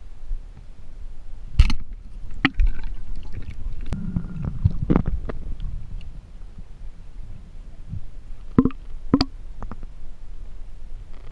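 A few sharp knocks and clicks over a low steady rumble, as heard through an action camera in a waterproof housing while spearfishing.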